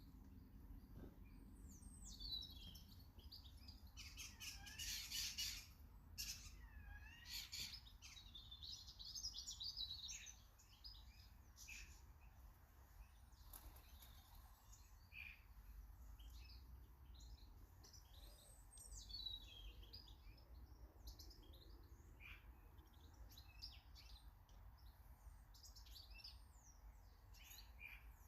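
Small garden birds chirping and twittering, busiest in the first third, over a faint steady low rumble.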